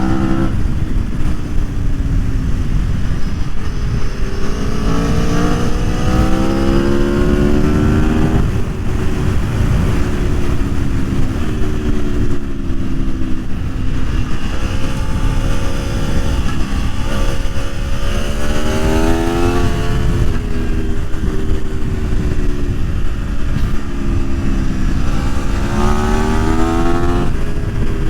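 Aprilia Tuono V4 1100's V4 engine pulling hard through the gears, its note climbing and dropping back at each upshift, several times over, with stretches of steady cruising in between.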